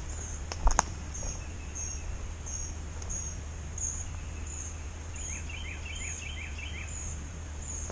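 Birds calling: a short, high note repeated about every half second, with a quick run of lower chirps in the middle. A sharp click sounds under a second in.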